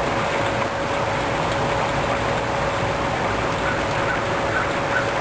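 Steady rain falling, an even hiss, with a faint steady tone running through it.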